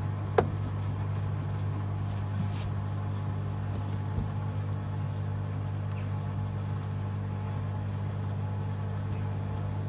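Washing machine running mid-cycle with a steady low motor hum. A single sharp click sounds about half a second in, and a few faint ticks follow.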